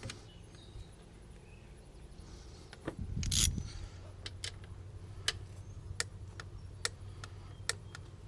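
Hand ratchet wrench clicking as a bolt is run down by hand, in single sharp clicks roughly once a second, after a short louder metallic rattle of tools about three seconds in.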